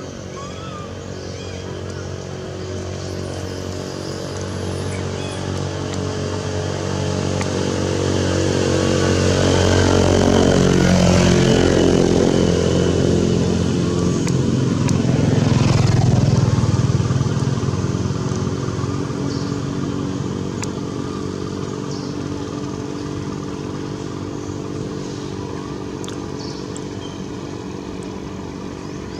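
A motor vehicle engine, likely a motorcycle, running steadily. It grows louder to a peak about halfway through and then fades away, as if passing by.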